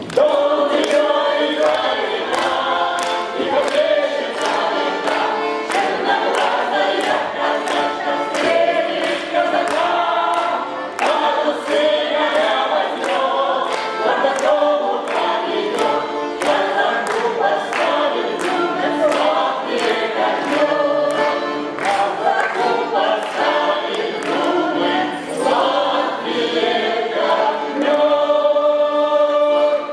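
Cossack folk ensemble singing as a choir in several voices, over a regular sharp beat. A chord is held for about the last two seconds before the song ends.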